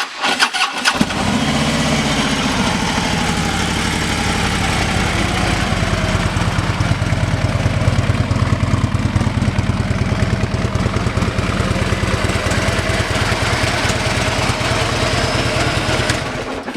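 Harley-Davidson Electra Glide Ultra Limited's 103 cubic inch V-twin on a Cobra exhaust starting: a brief crank, a quick rise in revs as it catches, then a steady, evenly pulsing idle. It stops near the end.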